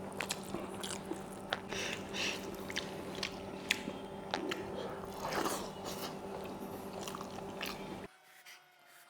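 Close-miked eating sounds: chewing and biting with many sharp wet mouth clicks, over a steady low hum. The sound cuts off abruptly about eight seconds in.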